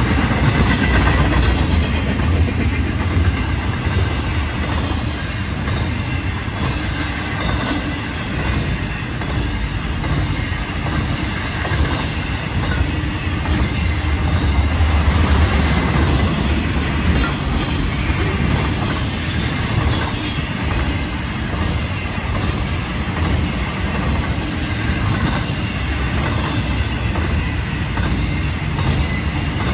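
Freight cars of a Florida East Coast intermodal train rolling past: a steady low rumble with the wheels clacking over the rails.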